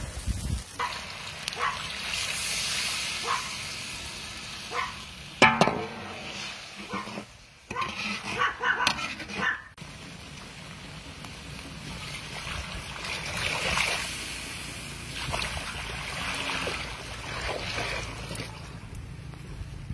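Cooking in a large wok: fish frying with a hiss and scattered pops, and water poured into the wok, with a run of loud, sharp noises between about five and ten seconds in.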